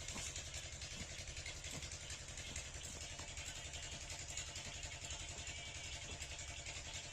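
A 7 HP diesel water-pump engine running steadily, its fast, even firing pulses unchanged throughout.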